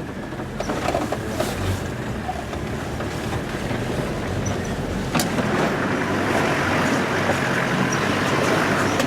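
Four-wheel-drive vehicle driving on a rough dirt road, heard from inside: steady engine and tyre rumble, with a sharp knock about five seconds in.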